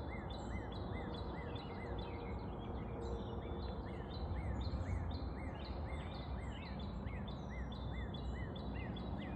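Several birds chirping: a run of short repeated notes about three a second, with higher chirps above them, over a steady low background rumble.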